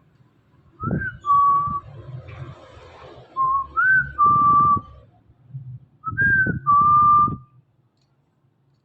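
Indian ringneck parrot whistling a clear two-note phrase, a short higher note then a longer steady lower one, three times about every two and a half seconds.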